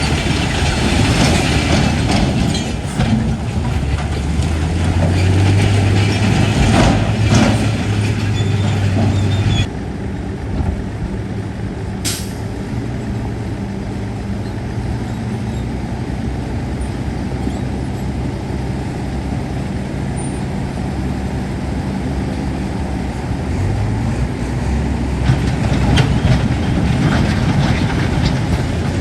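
Heavy diesel engine of earthmoving machinery working under load, its pitch rising and falling, with scattered knocks and clanks. About ten seconds in it drops suddenly to a quieter, steadier running, and a short sharp hiss of air comes a couple of seconds later. The engine works harder again near the end.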